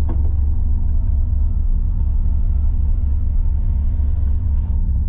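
1985 Chevrolet Camaro IROC-Z's 305 V8 running, a steady low rumble.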